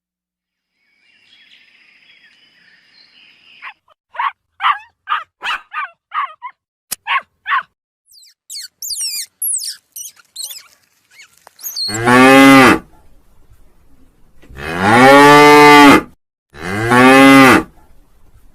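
Cow mooing three times: loud, drawn-out moos in the second half, the middle one the longest. Before them comes a quick string of short calls and high, sweeping chirps.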